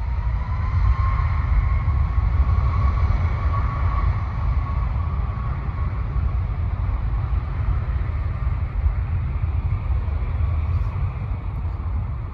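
Aircraft engines running loud, with a whine that rises in pitch over the first couple of seconds and then holds steady above a heavy deep rumble.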